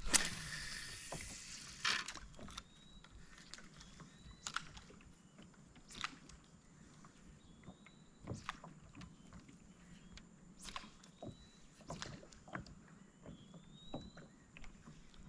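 Quiet, scattered knocks and clicks of gear being handled on a fishing kayak, one every second or two, after a short rush of noise at the start. Faint short rising chirps sound now and then in the background.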